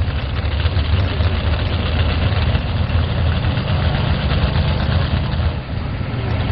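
4x4 pulling truck's engine running at a steady, low, even pitch. Its note shifts slightly about two seconds in and dips briefly near the end.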